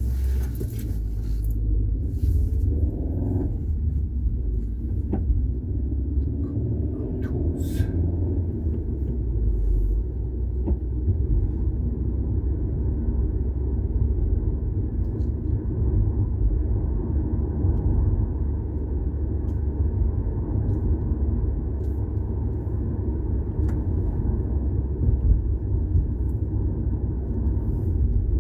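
Steady low rumble of a car on the move: road and running noise.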